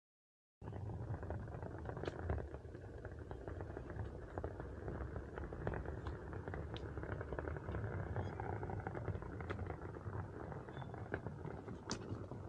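Steady rolling rumble of a wheel riding over a rough, muddy trail, with scattered small ticks and clicks from grit. It starts abruptly about half a second in.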